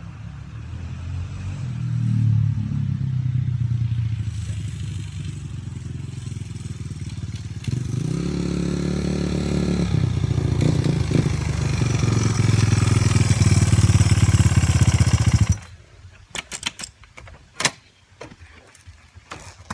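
Dirt bike engine running and revving, growing louder with a rise in pitch partway through, then shut off abruptly about three-quarters of the way in, followed by a few scattered clicks and knocks.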